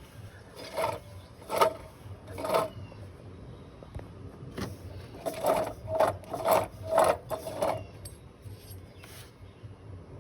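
Irregular bursts of mechanical rattling over a low steady hum: a few spaced bursts, then a quicker run of them about halfway through.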